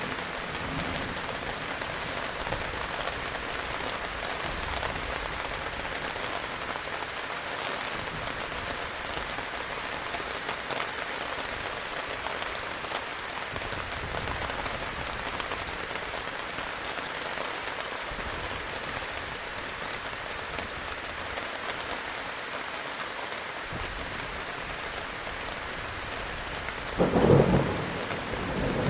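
Heavy rain falling steadily, with low thunder rumbling faintly in the middle and a loud thunderclap near the end.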